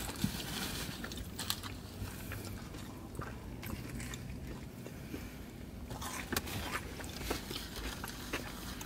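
Close-up eating sounds: chewing and wet mouth sounds with scattered small clicks as food is chewed and fingers are licked, along with light handling of a small plastic sauce cup.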